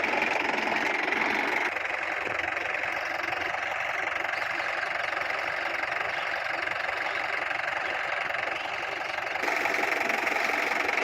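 Mahindra tractor's diesel engine running steadily under load, its pitch and level shifting slightly about two seconds in and again near the end.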